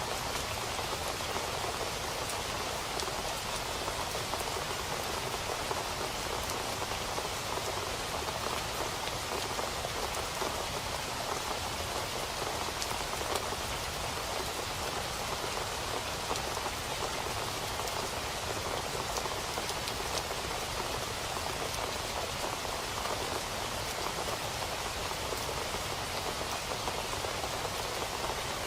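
Steady rain falling on a surface: an even hiss of many drops with faint scattered individual drop ticks, no thunder.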